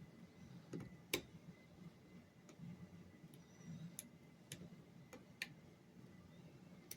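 Faint, irregular metallic clicks of lock-picking tools working the pins inside a lock, with one sharper click about a second in.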